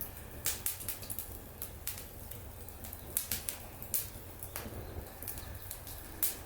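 Wood fire burning in a fire stand, crackling with irregular sharp pops and snaps, over a steady low hum.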